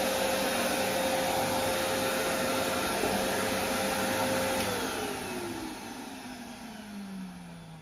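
Vacuum cleaner running steadily, then switched off a little past halfway through: its motor tone falls in pitch and the sound fades as the motor spins down.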